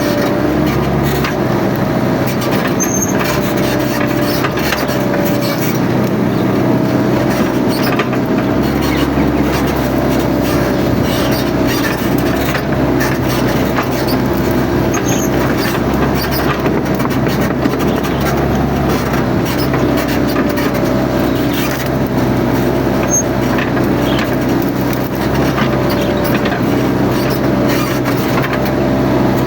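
Mini excavator's engine running steadily at working revs, with a tone that wavers slightly up and down, and scattered short snaps and knocks of brush being cleared.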